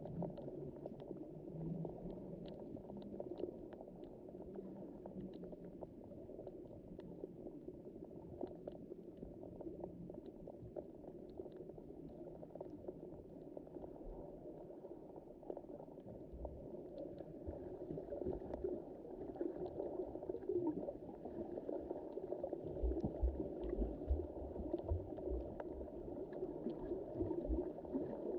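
Underwater ambience in the sea: a steady muffled wash of moving water with scattered faint clicks and crackles. Low thumps grow louder in the last third.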